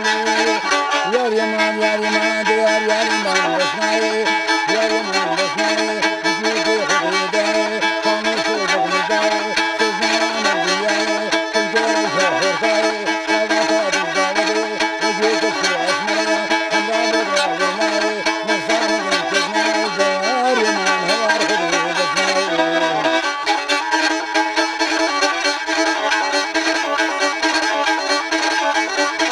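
Kamancheh, the bowed spike fiddle, playing a melody with sliding ornaments between notes.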